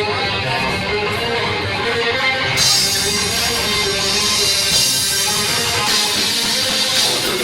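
Band music with guitar, loud and dense; about two and a half seconds in the sound turns much brighter and fuller at the top.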